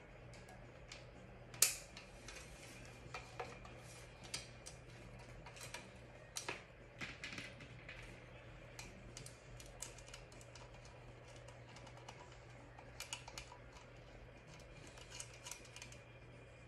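Scattered light clicks and taps of small screws, a small wrench and the hard parts of a tumbler turner being handled and fitted together, with one sharper knock about a second and a half in. A steady low hum runs underneath.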